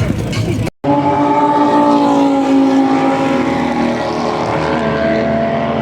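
A car engine running at steady revs, holding one pitch; the pitch steps once a little under five seconds in. It starts right after a brief dropout in the sound.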